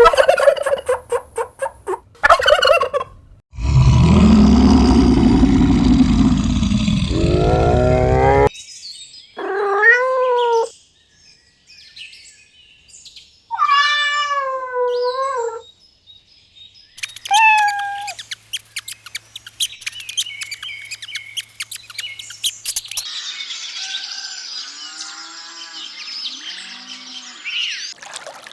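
A run of different animal sounds, one clip after another: fowl-like calls at the start, a loud rumbling noise, two wavering pitched calls, then clicking and chirping.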